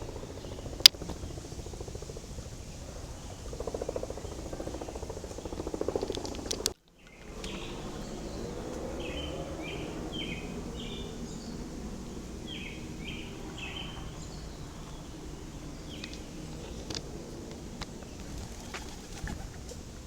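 Outdoor park ambience with steady background noise and a sharp click about a second in. After a brief break about seven seconds in, a bird gives two runs of short repeated chirps.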